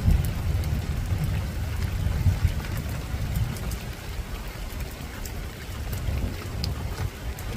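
Steady rain falling on a rooftop, with scattered sharp drop ticks over an even hiss and a low rumble underneath that eases toward the end.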